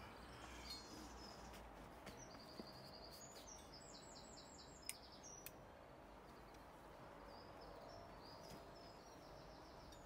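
Near silence with faint birdsong: a small bird sings a few short phrases of rapid, repeated high chirps. A single faint click comes about five seconds in.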